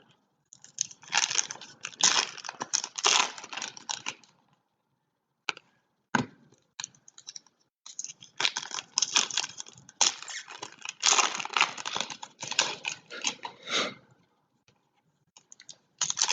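Foil trading-card packs being torn open and their wrappers crinkled: two long stretches of crackling, with a few sharp clicks in the pause between them.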